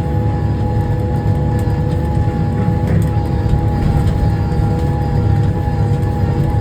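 Tractor engine running steadily under load while pulling a disc harrow, heard from inside the cab. A low drone is joined by a steady whine.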